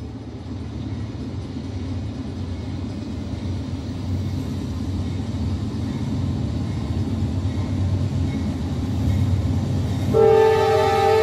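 An approaching train: a low rumble growing steadily louder, then the locomotive horn starts near the end, a chord of several steady tones.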